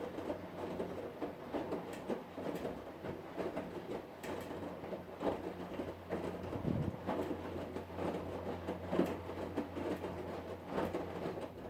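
Hotpoint Ariston washing machine running, with a steady motor hum under an irregular clatter of knocks and clicks from the turning drum.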